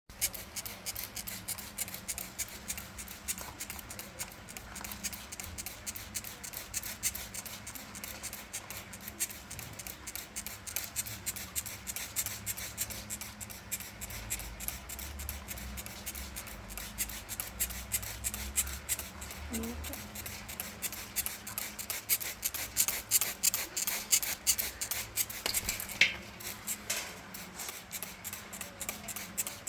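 Alexandrine parakeet bathing: a continuous run of quick, crisp splashes and clicks, many a second, growing busier in the last third.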